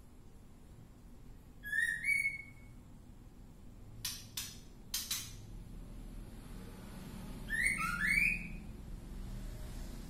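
Caged songbird giving a pair of rising whistled notes, three short harsh rasps, then another pair of rising whistles.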